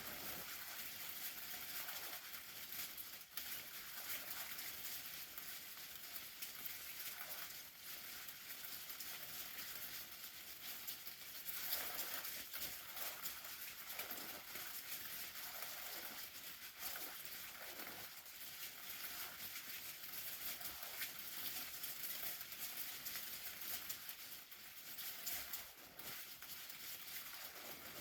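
Steady crackling, pattering hiss, with a few short swishing sweeps near the middle.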